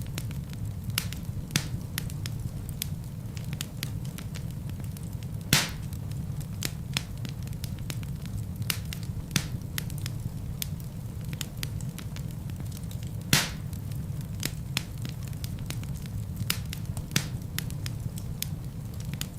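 Wood fire burning in a fireplace: a steady low rumble of flames with irregular sharp crackles and pops from the burning logs, two louder pops at about five and a half and thirteen seconds in.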